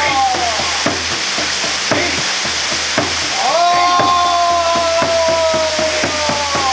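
Waterfall water pouring and splashing steadily, with many small splashing clicks through the rush. A long held tone that falls slightly in pitch fades out about half a second in and starts again about three and a half seconds in.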